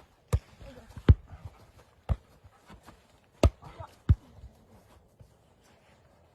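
A ball bouncing on a hard surface: five dull thumps at uneven intervals over the first four seconds, then a lull.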